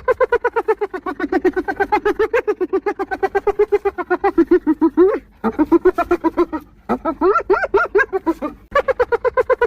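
Spotted hyena laughing: a rapid run of short, high-pitched staccato notes, many a second, in bouts broken by brief pauses about five, seven and nine seconds in.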